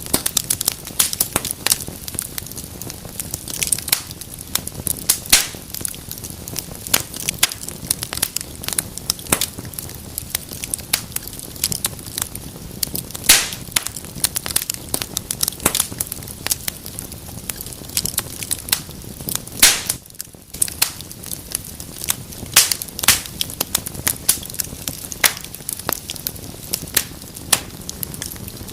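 Wood fire burning in a fireplace, crackling and popping irregularly over a steady low hiss of the flames, with a brief lull about twenty seconds in.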